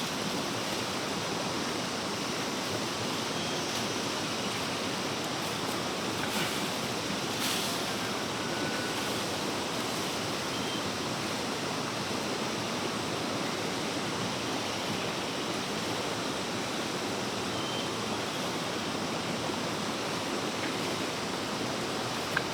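Steady rushing noise that holds even throughout, with a few faint, brief high chirps over it.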